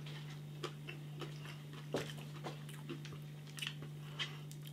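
A person chewing food quietly, with faint irregular mouth clicks, over a steady low hum.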